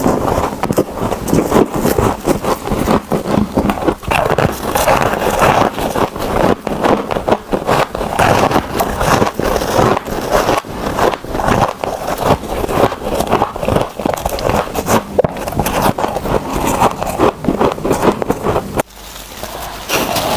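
Close-miked biting and chewing of freezer frost: dense, irregular crunching and crackling that goes on without pause, easing briefly near the end.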